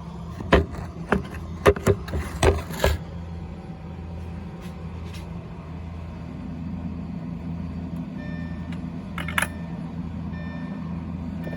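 Several sharp knocks as the phone is set down, then a steady low electrical hum with faint on-off tones and a brief click about nine seconds in. This is the odd noise an Audi A4 B6 makes at the ECU location with the ignition at ON, and the owner is unsure whether it is normal.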